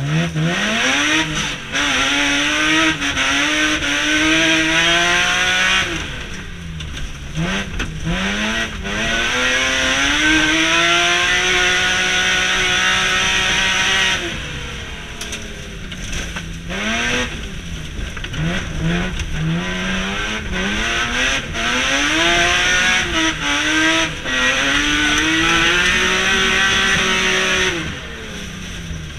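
BMW E36 Compact's M3 straight-six engine at full throttle, revving up through the gears with quick upshifts, heard from inside the cabin. The revs fall away on lift-off three times and then climb again.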